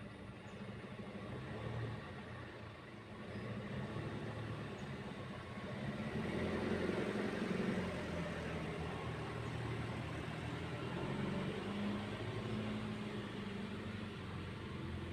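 An engine running steadily with a low hum, growing louder about six seconds in.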